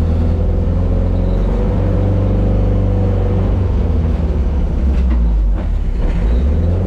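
Turbocharged Zetec engine of a Mk1 Ford Fiesta running steadily while the car is driven, through its new full exhaust system. The engine note dips and changes briefly about five seconds in.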